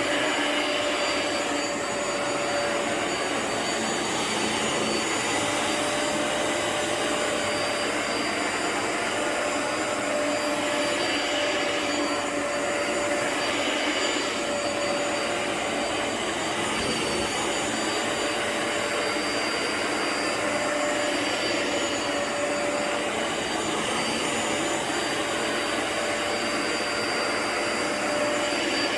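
A vacuum motor running steadily over a rug, a constant rushing whine with a slight rise and fall every couple of seconds.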